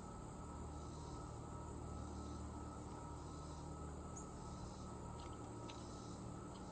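Steady high-pitched trilling of crickets or other insects, with a few short, high bird chirps about four to six seconds in.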